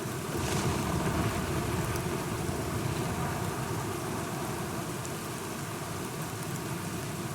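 Steady rain falling, with a low rumble of thunder that swells about half a second in and fades over the next few seconds.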